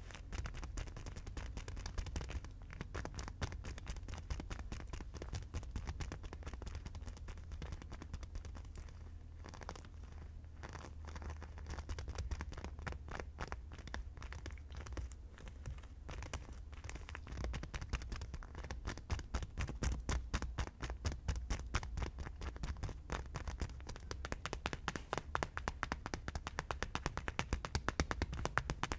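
Fast tapping and scratching on hard objects, many quick taps a second, growing louder and denser about two-thirds of the way through.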